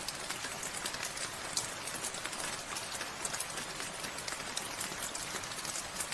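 Steady rainfall: an even hiss of rain with many individual drops ticking and pattering on surfaces.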